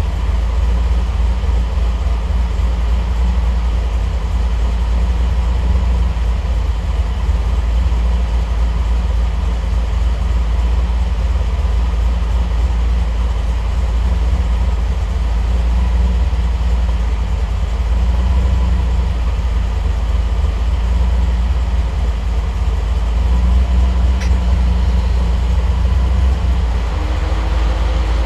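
Triumph TR8's V8 idling steadily, a continuous low drone that swells slightly in the later part, while the Megasquirt engine management auto-tunes the idle fueling, running slightly lean.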